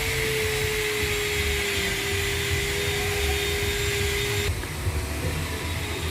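Vacuum tumbler marinating machine running: a steady whine and hiss, typical of its vacuum pump, over a low motor hum. The whine and hiss cut off suddenly about four and a half seconds in, while the hum goes on.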